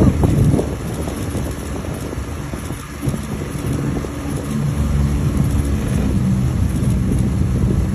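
A vehicle engine running steadily at idle, a low rumble.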